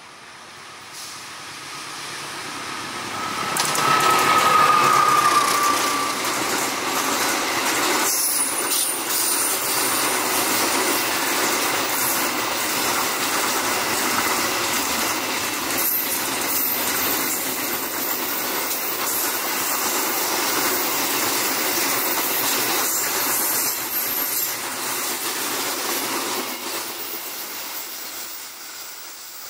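A KAI CC206 diesel-electric locomotive passing at the head of a container freight train, loudest about four seconds in, with a brief high whine as it goes by. Then a long string of loaded container flatcars rolls past on a curve with a steady wheel-on-rail rumble and clatter that fades away near the end.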